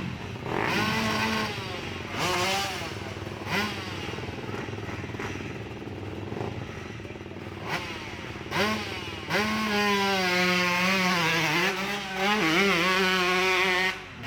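Hill-climb motorcycle engine revving in several short throttle blips, then from about nine seconds in held at high revs for about five seconds, its pitch wavering as it pulls under load.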